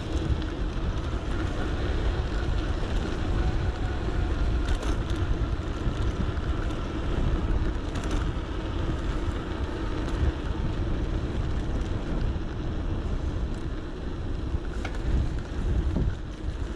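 Riding noise from an electric bike: wind rumbling on the action camera's microphone and tyres on the road, with a steady low hum and a few light clicks.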